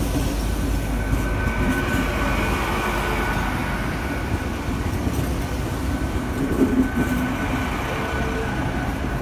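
Great Western Railway Class 800 train, two units coupled, moving alongside the platform close by: a steady rumble of wheels and running gear with a thin steady whine above it.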